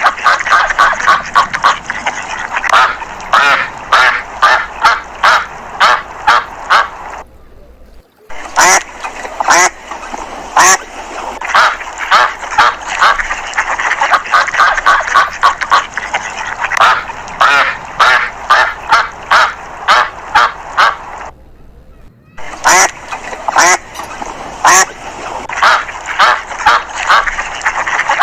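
Domestic waterfowl calling in fast, loud runs of calls, several a second, with two brief breaks about seven and twenty-one seconds in.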